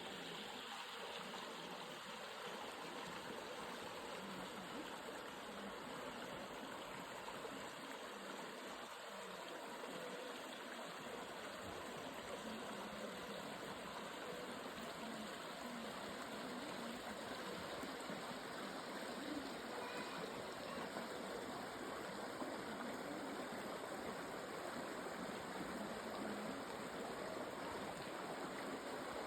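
Stream water running and splashing steadily over rocks.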